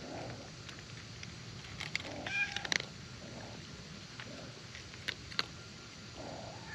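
A domestic cat meowing, with its clearest, higher call about two and a half seconds in, among a few sharp clicks.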